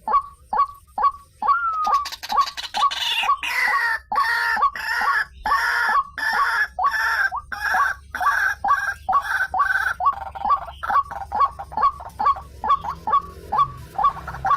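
White-breasted waterhen (ruak-ruak) calling: a steady run of short, falling notes, about three a second. From about two seconds in to about ten seconds, a louder, harsher run of calls sounds over them.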